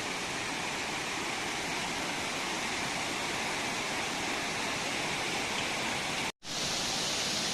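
Waterfall: a steady rush of falling water. It cuts out for a split second about six seconds in, then carries on slightly brighter.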